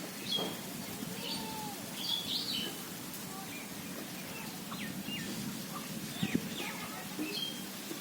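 Several small birds chirping and calling in short, scattered notes over a steady low background hum.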